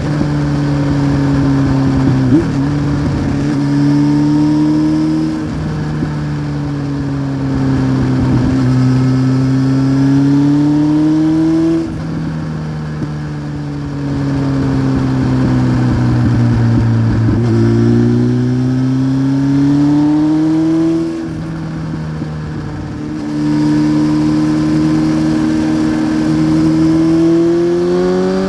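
A 1993 Honda CBR900RR Fireblade's inline-four running through a Remus aftermarket exhaust while riding. The engine note rises and falls as the throttle is opened and rolled off several times, dropping back about five, twelve and twenty-one seconds in, with wind rushing past.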